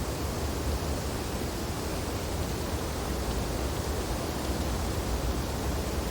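Steady wind blowing through tree branches during snowfall, a continuous low rushing rumble with no breaks or distinct events.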